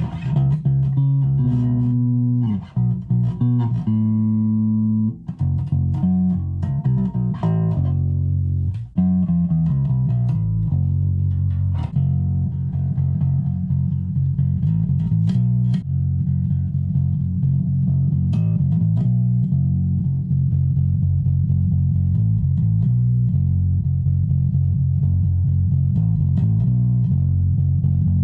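Donner electric bass guitar playing: a few separate notes with slides at first, then a steady repeating riff from about a third of the way in.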